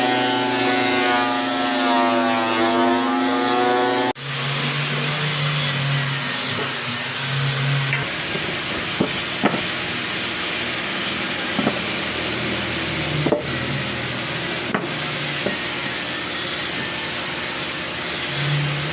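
A woodworking power tool running. For the first few seconds its pitch dips and recovers as it takes a load. After an abrupt cut about four seconds in comes a steady noisy whir with a few sharp knocks.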